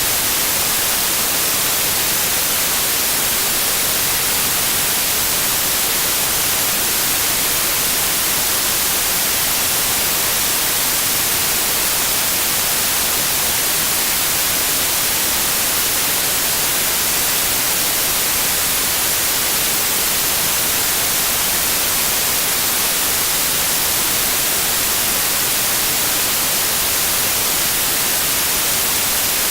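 Steady, unvarying white noise: a loud, even hiss, brightest in the treble, with no changes or events.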